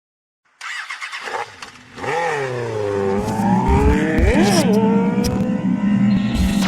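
Motorcycle engine revving: the note rises about two seconds in, holds steady, and blips up and back down sharply about four and a half seconds in, with wind buffeting the microphone.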